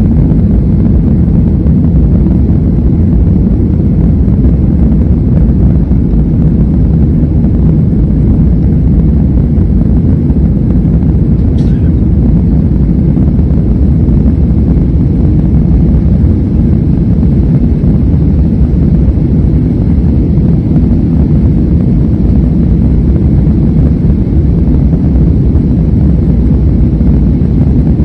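Airbus A320 in flight: a steady, loud, low roar of the jet engines and rushing air.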